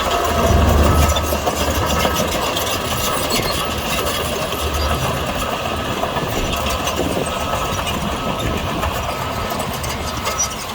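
Diesel engine of heavy earthmoving machinery running steadily, with a low rumble.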